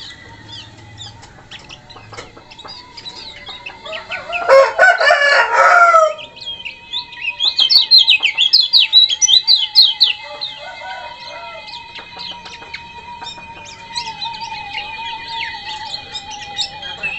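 A rooster crows once, about four seconds in, for about two seconds. Then a kecial kuning (Lombok yellow white-eye) sings a fast run of high, sharp chirps, with scattered smaller chirps before and after.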